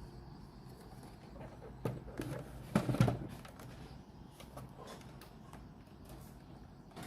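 Handling noise: a few sharp clicks and knocks, the loudest cluster about three seconds in, over a faint steady background hum.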